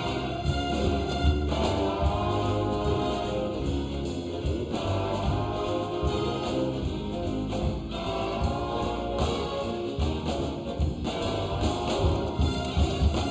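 A big band jazz ensemble playing a holiday number, with sustained horn chords that change every second or two over a steady bass and drum pulse.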